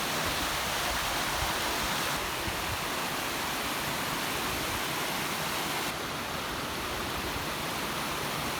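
Steady rush of water from a monsoon-fed mountain stream flowing under a bridge and on over a waterfall, an even hiss without breaks.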